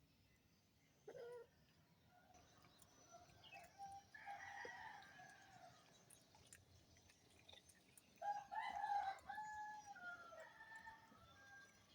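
A rooster crowing twice, once about four seconds in and again about eight seconds in, each crow drawn out over one to two seconds in stepped pitches.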